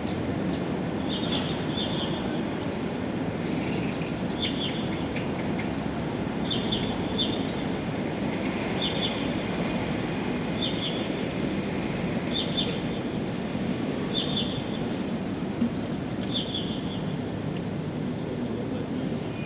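A bird calling over and over, short high chirps in quick doubled notes every one and a half to two seconds, over a steady low rumble of background noise.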